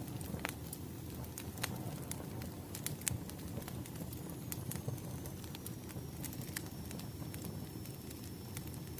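Wood fire burning with irregular sharp crackles and pops over a low steady rumble. A faint high whistle comes in about halfway through.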